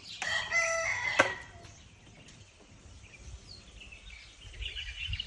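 A bird gives one loud call lasting about a second near the start, then faint high chirping from birds in the trees follows toward the end.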